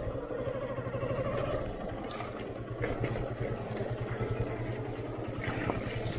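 Single-cylinder motorcycle engine running at low revs with a steady pulsing beat, with a few clicks and knocks over it.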